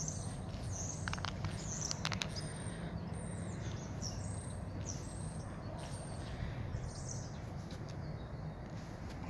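A bird chirping over and over, short high notes that fall in pitch about once a second, over a steady low outdoor rumble. A few faint clicks come between one and two seconds in.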